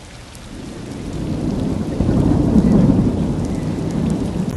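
Steady heavy rain, with a roll of thunder that swells from about a second in and rumbles on loudly.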